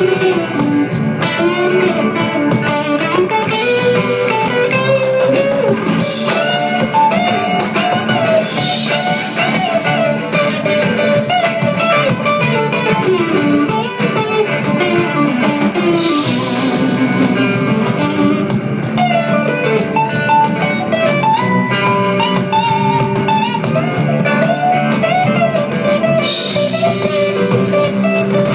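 A band playing blues-rock without vocals: a guitar plays a moving melody over a drum kit keeping a steady beat, with cymbal crashes now and then.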